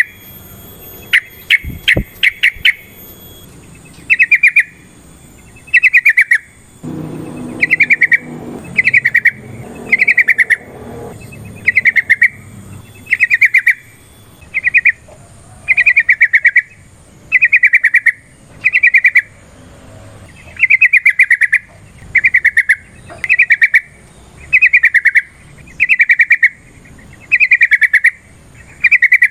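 Yellow-vented bulbul (trucukan) calling over and over in short, loud, bubbly bursts of rapid notes, about one phrase every second or so. A few sharp clicks sound in the first two seconds.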